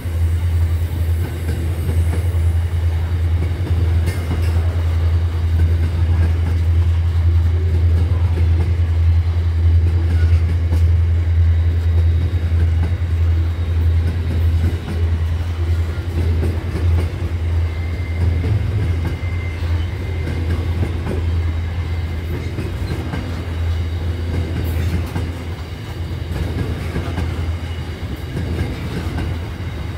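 Freight train wagons rolling past at close range: a steady low rumble of wheels on the rails with a light clickety-clack. It eases off somewhat in the last third.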